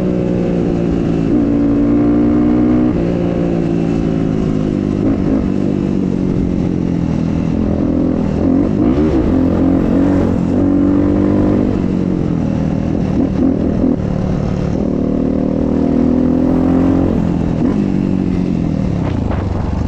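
Dirt bike engine running under way, its pitch holding steady for stretches and rising and falling with the throttle several times.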